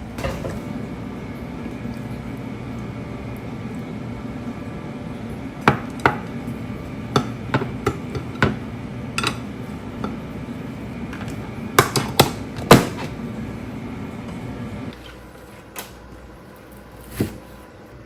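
Kitchenware knocking and clinking: a dozen or so sharp separate taps, bunched in the middle, over a steady low hum that cuts off suddenly near the end.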